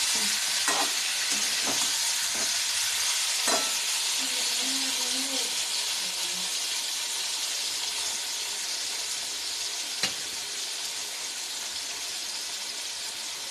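Marinated chicken frying in a hot oiled pan: a steady sizzle that eases a little over time. A few sharp knocks of a stirring spoon against the pan come in the first few seconds, and one more about ten seconds in.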